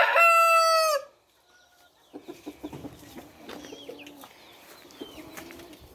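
A rooster crowing, the loud drawn-out crow ending with a falling tail about a second in. After a short pause, faint clucking and scratching from chickens.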